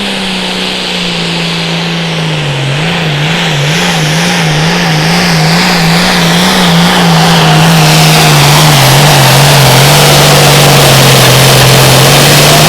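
Pulling tractor's engine held at full throttle under heavy load during a pull: a steady deep drone that sags slightly in pitch, wavers up and down for several seconds, then holds steady while growing louder.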